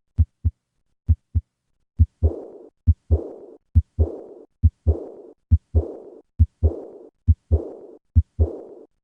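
Heart sounds: two beats of plain first and second heart sounds. Then, about two seconds in, a soft decrescendo murmur begins right after each second heart sound and fades before the next beat. This is the early diastolic murmur typical of aortic regurgitation. The beat repeats about once every 0.9 s.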